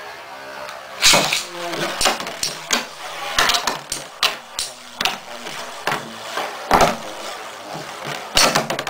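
Two metal-wheeled Beyblade spinning tops clashing in a plastic stadium: irregular sharp clacks and knocks, several a second, with a loud hit about a second in.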